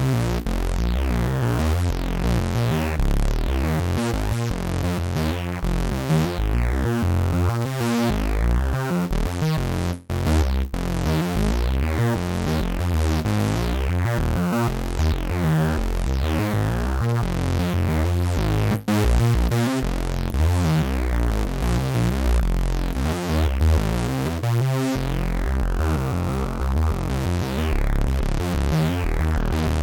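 IK Multimedia UNO Synth Pro X analog synthesizer playing a sequenced electronic pattern: rapidly repeating short notes over a heavy bass. The sound drops out for an instant twice, about a third of the way in and again about two-thirds in.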